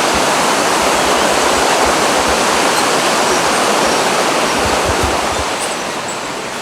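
Loud, steady rush of a fast-flowing mountain stream, easing off slightly near the end.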